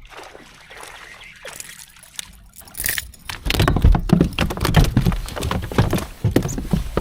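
Water splashing and sloshing at a kayak, with irregular knocks and handling noise, getting louder about three and a half seconds in.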